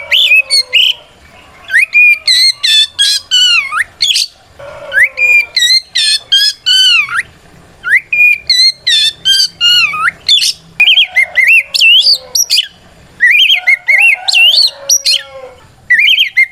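Oriental magpie-robin (kacer) singing loudly in quick bursts of whistled phrases that glide up and down, with short pauses between bursts. It is the full-throated 'ngeplong' song used to challenge a rival male.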